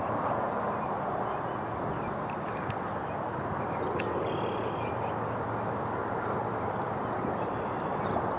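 Steady rushing outdoor background noise with faint, short bird chirps and calls over it, and a single sharp click about four seconds in.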